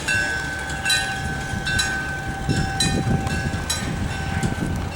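A Southern Pacific locomotive passing, with a bell striking about once a second and a steady high whine. The low rumble of the train swells about halfway through.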